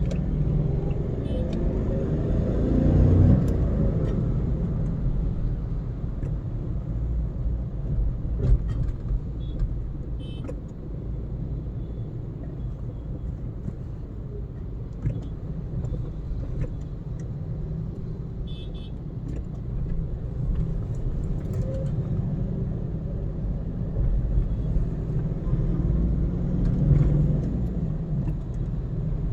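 Car driving along a city road: steady low rumble of engine and tyre noise, with a louder swell about three seconds in.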